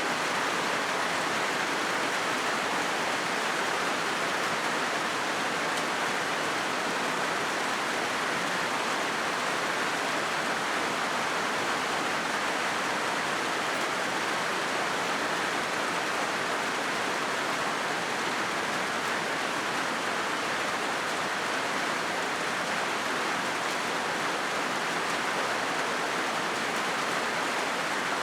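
Rain falling steadily on a corrugated zinc roof: a dense, even wash of drops with no pauses or changes.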